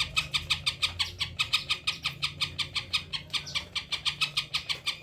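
Green leafbird (cucak ijo) singing a fast, even run of sharp repeated notes, about nine a second, part of its song of mimicked calls (isian).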